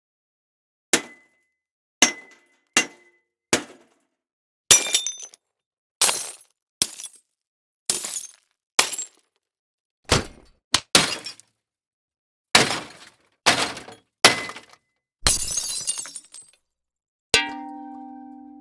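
A run of library impact sound effects played one after another, about seventeen separate hits roughly a second apart, each cutting in sharply and dying away quickly. Several have a brief high ring or a breaking, clinking crash. The last is a hit that leaves a steady low ringing tone.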